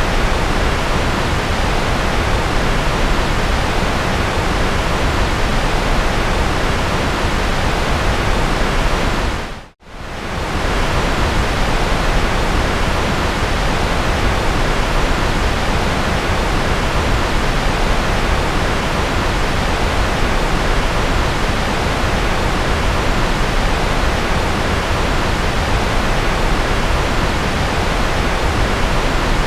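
Steady generated white noise, an even hiss with no tones or rhythm. About ten seconds in it fades out almost to silence and straight back within about a second.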